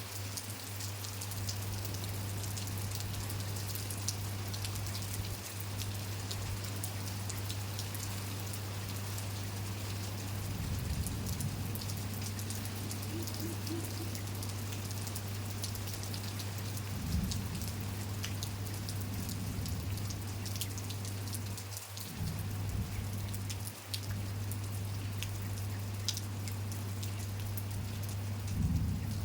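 Steady rain falling, with many individual drops ticking sharply against surfaces, over a constant low hum.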